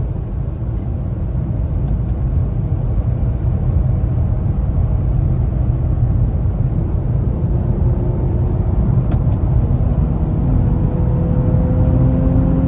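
A car driving: a steady, heavy low rumble of engine and road noise, with a faint engine tone rising slowly in pitch over the last few seconds as it speeds up.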